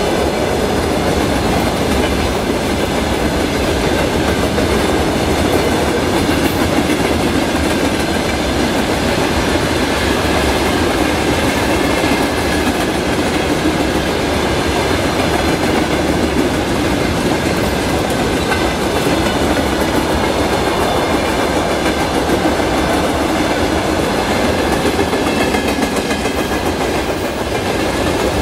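Freight train of open gondola wagons rolling past, a steady, continuous noise of steel wheels running on the rails.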